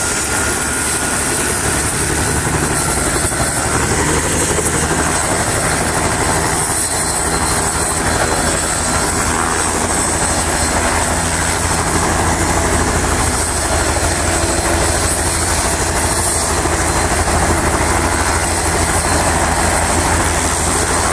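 Turboshaft helicopter running at close range, with its steady turbine whine and rotor beat and the rush of rotor downwash on the microphone. The sound is loud and unbroken.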